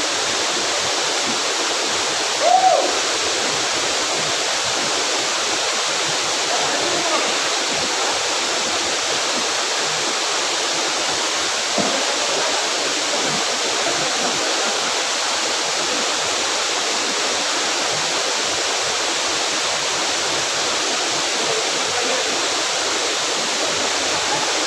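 A waterfall: a steady rush of falling water. A brief, higher sound rises and falls over it about two and a half seconds in.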